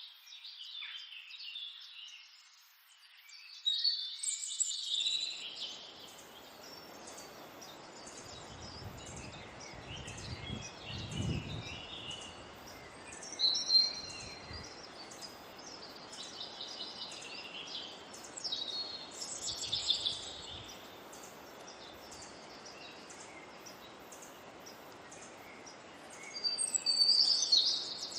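Wild birds chirping and trilling, many short high calls overlapping, some louder bursts near the end. A steady rushing background noise comes in about five seconds in, with a few low rumbles partway through.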